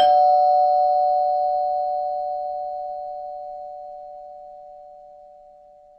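Doorbell chime: the second, lower note of a ding-dong strikes and both notes ring on together, fading out slowly over about six seconds.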